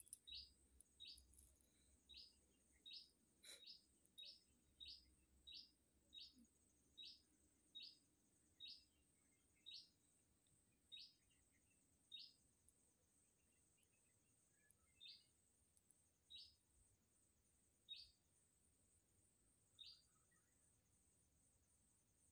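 A bird repeating one short, high call note, at first about one and a half notes a second, then spaced out to one every second or two after about twelve seconds, falling silent near the end. A faint steady high-pitched drone runs underneath.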